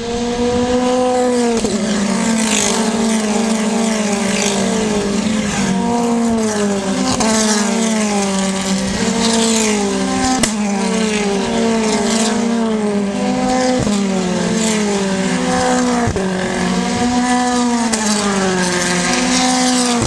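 Race car engine revving up and down over and over, its pitch rising and falling every second or two, with a few sharp cracks.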